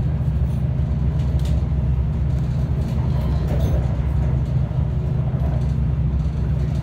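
Passenger train running at speed, heard from inside the carriage: a steady, even low rumble.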